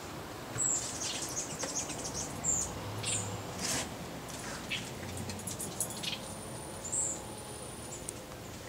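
Birds chirping: short, high-pitched chirps scattered irregularly, a few seconds apart, over a steady background hiss.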